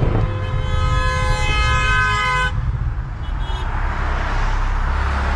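A car horn blares steadily for about two seconds, then stops. Under it runs the low drone of the straight-piped, tuned Toyota GR Supra's engine, with road noise.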